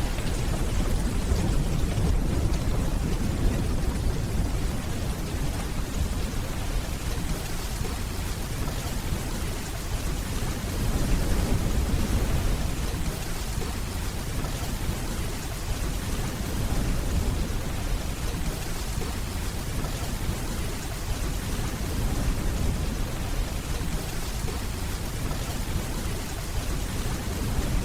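Steady rainfall with a low rumble of distant thunder underneath, swelling a couple of times.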